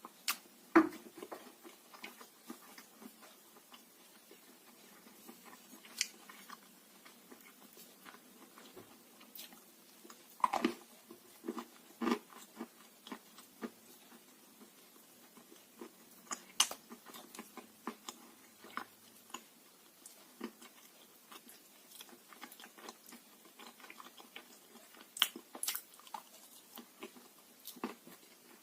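Blue Uzbek edible clay being bitten and chewed: irregular dry crunches and crackles, with a louder bite every few seconds.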